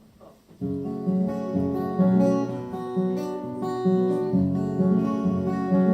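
Acoustic guitar strumming a song's intro, starting suddenly about half a second in after faint room murmur.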